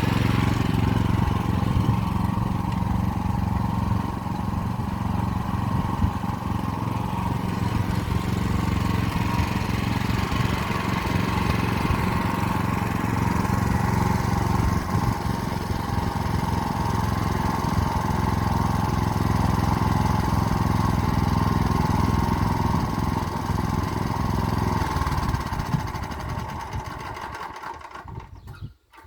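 Motor Sich walk-behind tractor engine running steadily while pulling an arrow-type hiller along the rows. Near the end it dies down and stops.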